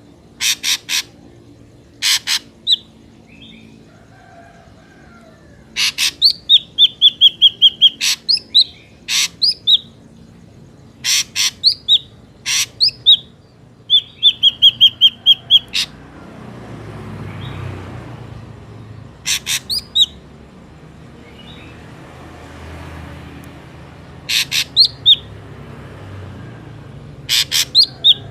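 Ashy drongo calling: groups of rapid, sharp high notes, some ending in short down-slurred whistles or a briefly held whistle, repeated in phrases with pauses between.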